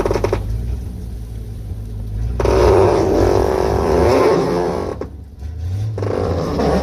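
1972 Chevrolet C50 dump truck engine running under load, with a steady low hum. It gets much louder and noisier for about two and a half seconds starting a little past two seconds in, and again briefly near the end.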